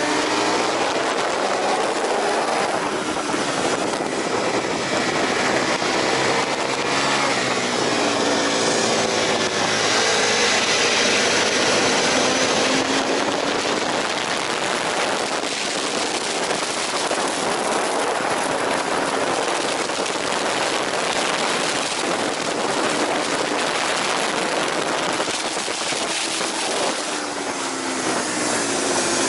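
Aprilia RSV 1000 Factory's V-twin engine at racing speed, its pitch rising and falling several times as it is revved through the gears, under heavy wind rush.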